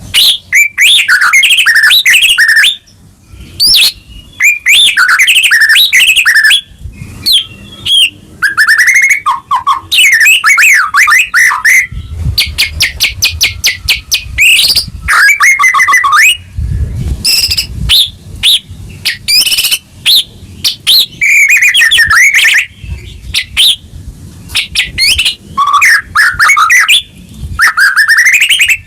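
White-rumped shama (murai batu) singing loudly in full song: varied whistled phrases and sweeping notes in bursts with short pauses, including a fast run of rapid repeated notes about halfway through.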